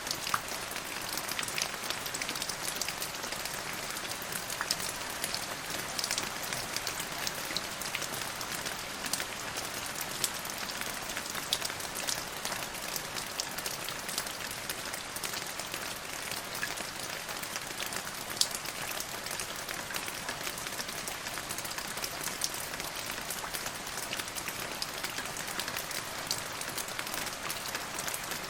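Steady rain: an even hiss with many sharp drop clicks scattered through it.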